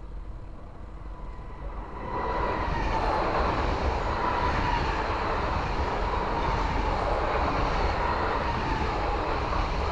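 Double-deck electric TER train passing fast close by, with no horn: a dense rush of wheel and air noise that swells about two seconds in and then holds steady.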